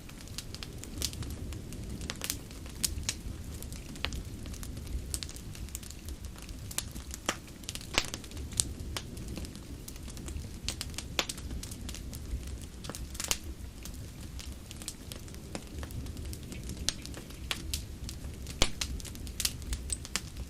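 Wood fire crackling, with irregular sharp snaps and occasional louder pops over a steady low rush.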